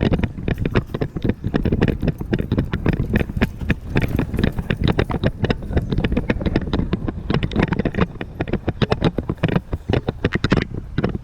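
Handling noise from a rider-worn GoPro on a moving horse: dense, rapid, irregular knocks and rattles over a steady low rumble.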